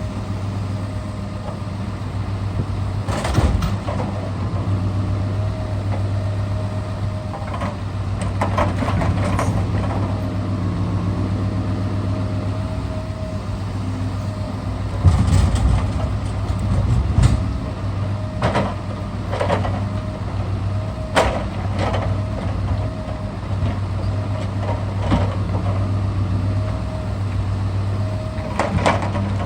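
Scania R650's V8 diesel running steadily to drive the hydraulics of an Epsilon timber crane, with a thin steady whine over the engine drone. Scattered knocks and clunks come every few seconds as logs are loaded, the loudest about halfway through.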